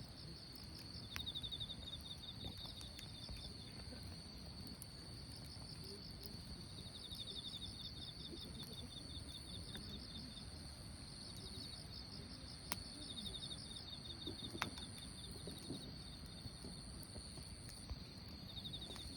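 Insects trilling steadily in pulsed bursts over a wood campfire, which crackles faintly and gives a few sharp pops.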